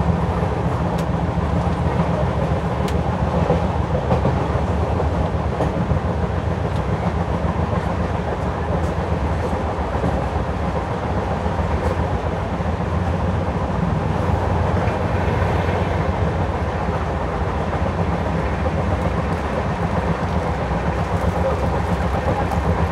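LHB passenger coach running along the track, heard from inside at a window seat: a steady rumble of wheels on rails with a few faint clicks.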